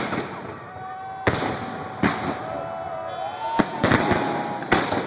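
Fireworks display going off: a series of about seven sharp bangs, three of them in quick succession near the middle, with crackling between the bursts.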